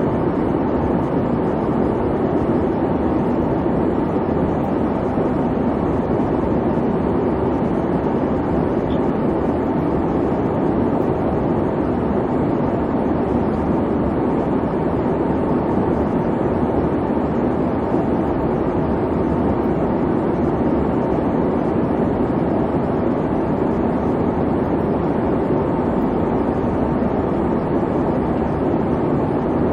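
Steady airliner cabin noise: the constant low hum and rush of the jet engines and airflow, heard from inside the cabin.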